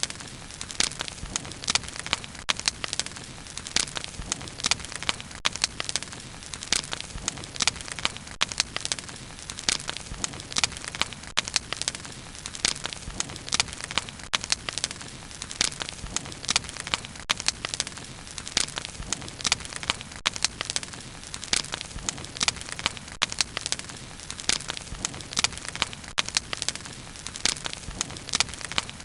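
Bonfire burning, wood crackling and popping in many irregular sharp snaps over a soft low rush of flames.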